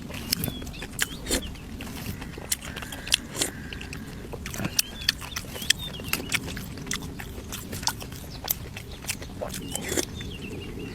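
A person chewing and biting into braised duck and vegetables close to the microphone, with frequent short, sharp mouth clicks.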